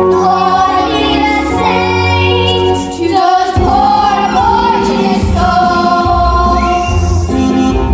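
Voices singing with instrumental backing music, holding long notes over a steady accompaniment, with a short break about three seconds in.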